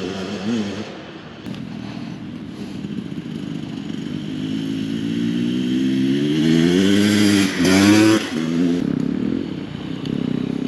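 Husqvarna TE300 TBI two-stroke dirt bike engine running under throttle. Its revs climb steadily for several seconds and peak about three-quarters of the way through, then drop back.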